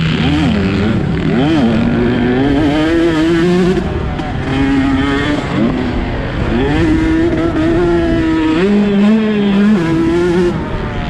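Husqvarna TC 125 two-stroke single-cylinder motocross engine running hard under race load. Its pitch climbs and falls repeatedly, with several sudden drops.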